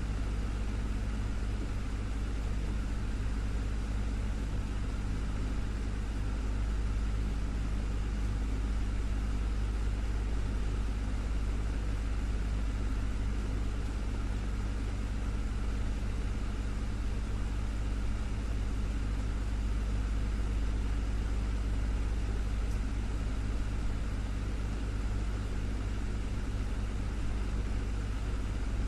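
Desktop fan running steadily: an even rush of air over a low motor hum.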